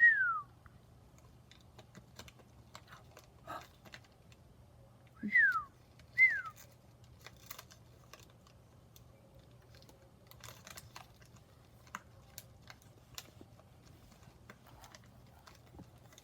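Scattered light clicks and crackles of a plastic bottle being chewed by a puppy, with three short whistled notes, each falling in pitch: one at the start and two more about five and six seconds in.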